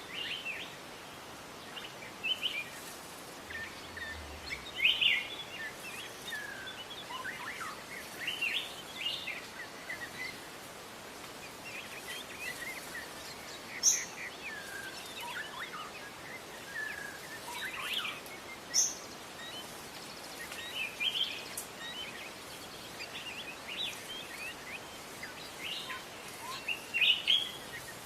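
Wild songbirds chirping and calling in short, quick notes over a steady background hiss, with two sharp clicks about halfway through.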